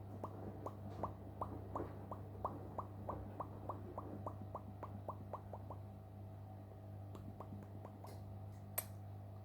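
Alexandrine parrot making a quick series of faint, falling click-like notes, about four a second, thinning out after about six seconds. A steady low hum lies underneath.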